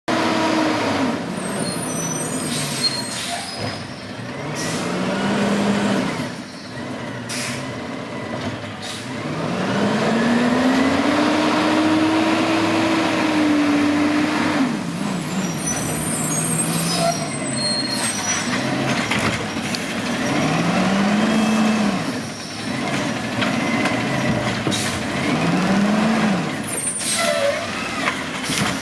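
Diesel garbage truck's engine revving up and down several times, with short sharp hisses of its air brakes in between.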